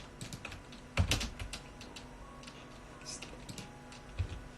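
Scattered clicks and taps on a computer keyboard, with a louder tap about a second in and another near the end.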